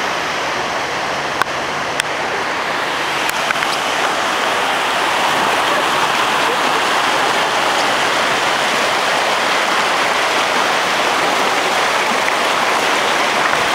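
Rushing floodwater, a loud steady rush, with a few light clicks in the first few seconds.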